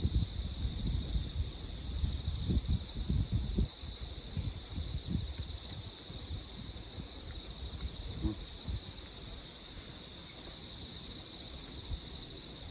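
Steady high-pitched chirring of a cricket chorus at night, unbroken throughout, with a few faint low bumps in the first few seconds.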